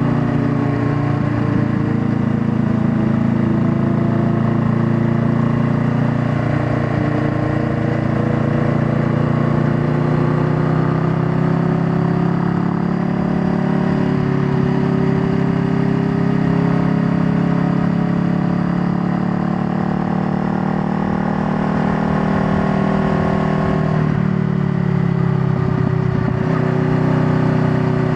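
Honda Rebel 500's 471 cc parallel-twin engine running at a steady ride speed, its pitch drifting gently up and down. Near the end the note dips and settles slightly lower, and a low wind rumble runs underneath.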